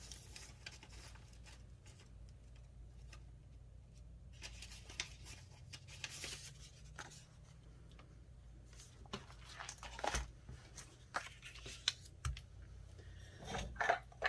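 Faint rustling and small clicks of craft supplies being handled on a table, with a few sharper taps in the second half.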